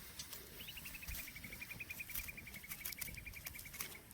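A bird's rapid trill: a string of short, even, high notes, about ten a second for some three seconds, starting a little higher and settling slightly lower. Faint scattered clicks sound under it.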